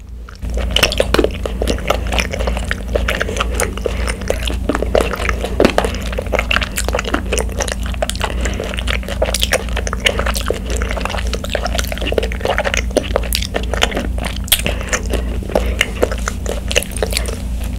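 Close-miked mouth sounds of sipping bubble tea through a wide straw and chewing the tapioca pearls: a dense, irregular run of small clicks and smacks.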